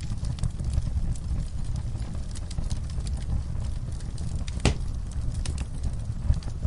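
Wood fire burning: a steady low rumble of flames with scattered crackles and pops. One sharp, louder pop comes about two-thirds of the way through.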